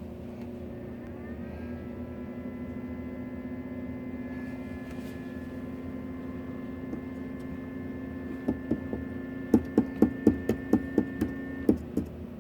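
Salton portable ice maker running: a steady electric hum with a higher whine that rises in pitch about a second in and then holds, stopping shortly before the end. Near the end, a quick string of sharp clicks.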